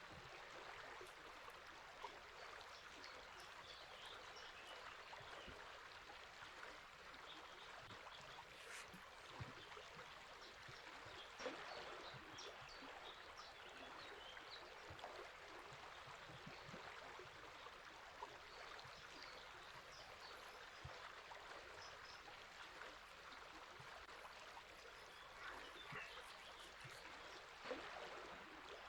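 River water flowing steadily and faintly, with scattered faint high bird chirps and a couple of brief louder ticks.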